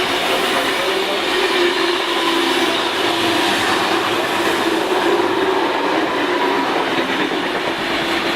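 Sydney electric passenger train running through the station at speed without stopping, a loud steady rush of wheels on rails with a faint steady hum running under it.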